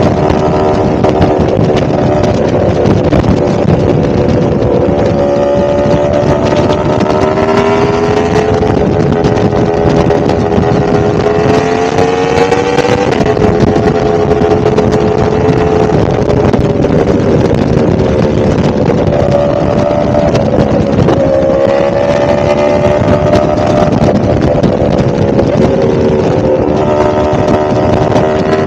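A 1000cc motorcycle engine running under way, its pitch climbing slowly as it pulls and dropping sharply at gear changes about 13 and 21 seconds in.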